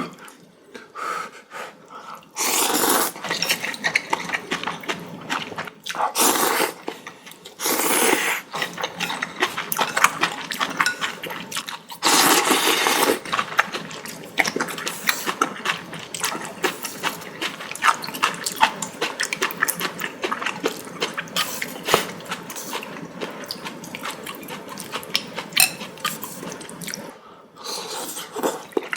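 Noodles being slurped in several long wet draws, with wet chewing and mouth clicks in between.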